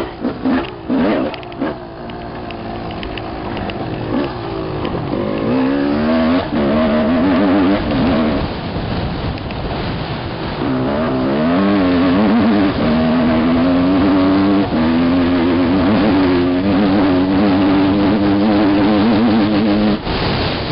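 Dirt bike engine under throttle, revving up and down as it is ridden around a dirt track. The revs ease off a couple of seconds in and again around the middle, then climb and hold fairly steady through most of the second half.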